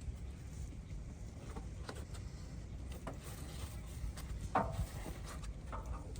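Irregular light knocks and clicks over a low steady rumble, with one sharper knock about four and a half seconds in.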